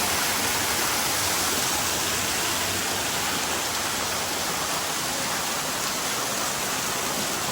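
Waterfall pouring close by: a steady, loud rush of falling water with no breaks.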